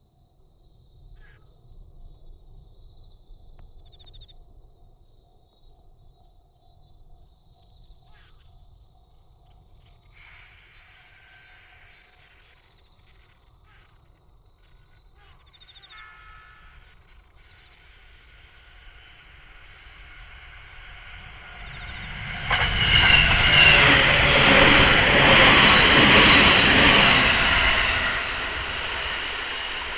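A JR 209 series electric train passes close by, growing louder from about twenty seconds in, loud for about five seconds, then easing off near the end. Before it arrives, insects buzz steadily.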